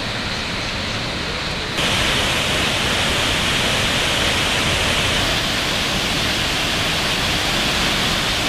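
Steady rush of Cheonjiyeon Waterfall's water falling into its pool. About two seconds in the rush jumps abruptly louder and brighter, then holds steady.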